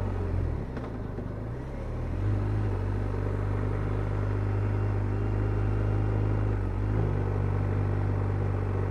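A BMW R1250RT's boxer-twin engine heard from the rider's seat, running at low road speed. Its note drops off for about two seconds near the start as the bike slows. It then picks up again and runs steadily on light throttle.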